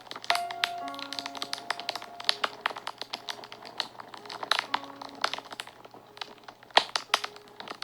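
Fire crackling and popping with many sharp snaps, one louder pop near the end, over soft background music of slow held notes.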